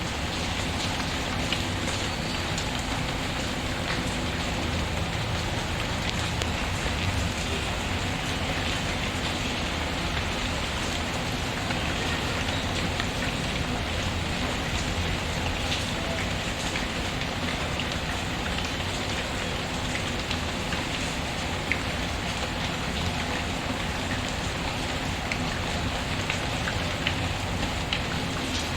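Steady rain pattering, mixed with the scattered small crackles of a wood fire.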